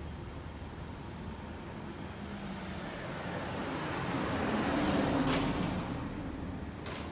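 A motor vehicle passing by: its sound swells, peaks about five seconds in and fades again over steady street background, with two short hisses near the end.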